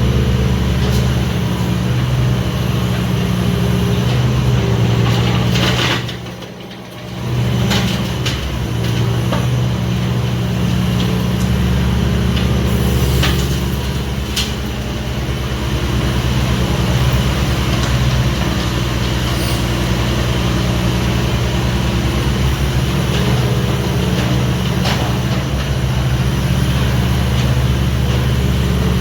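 Hitachi 26U mini excavator's diesel engine running steadily, with a few short clicks. The sound drops away briefly about six seconds in, then returns.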